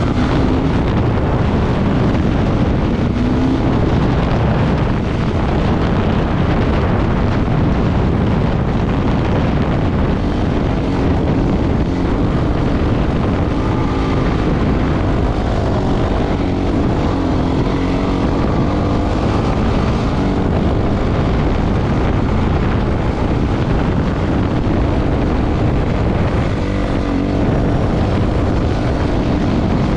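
Off-road motorcycle engine running with its pitch rising and falling under changing throttle, half buried in heavy wind noise on the microphone.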